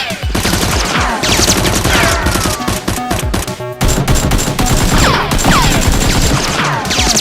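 Rapid automatic gunfire sound effects: long strings of shots in quick succession.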